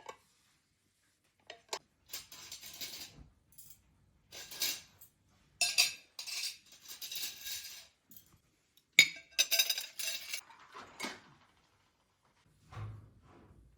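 Kitchen dishes and utensils clinking and clattering in irregular short bursts, the sharpest knock about nine seconds in, with a dull low thud near the end.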